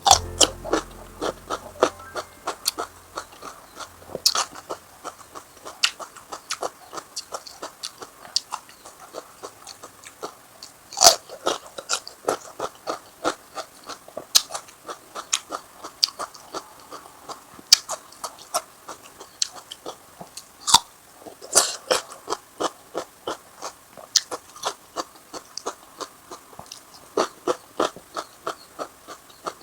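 A person chewing and crunching food close to the microphone: rapid crisp crackles several times a second, with a few louder crunching bites.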